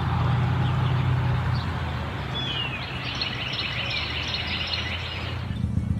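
A songbird singing a rapid run of chirps for about three seconds, starting about two seconds in, over a steady rushing noise and a low hum.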